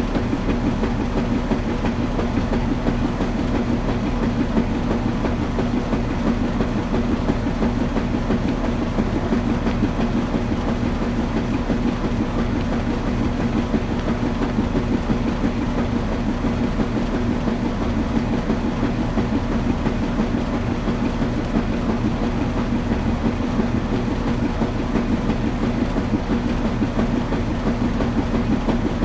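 Washing machine running steadily, a constant hum over a fast, even churning rumble.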